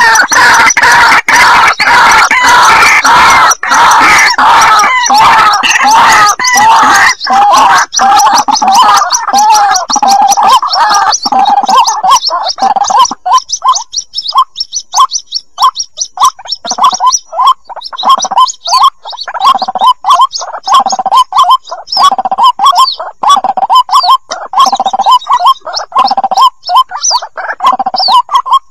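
White-breasted waterhen chicks calling, loud and gurgling: a dense, overlapping chatter that about halfway through breaks into a rapid series of short separate calls. This is the kind of call used to lure waterhens.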